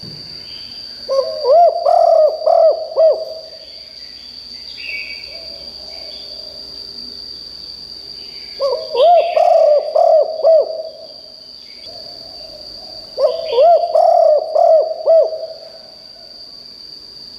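Spotted dove cooing: three loud phrases, each a run of about five rounded coo notes, one near the start, one in the middle and one near the end. A steady high-pitched whine runs underneath throughout.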